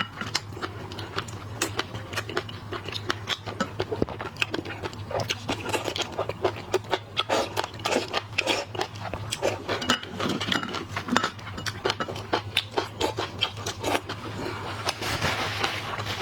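Close-miked eating of shrimp and crab: chewing and crunching, with many quick, irregular crackling clicks.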